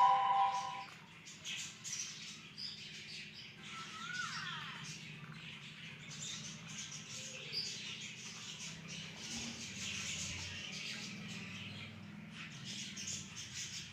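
Budgerigar giving soft, scattered chirps, with one short rising chirp about four seconds in, among faint small clicks.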